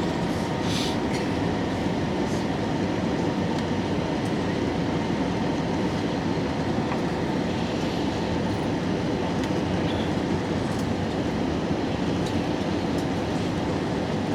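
Steady rumble inside an airliner cabin: engine and airflow noise running evenly, with a few faint clicks.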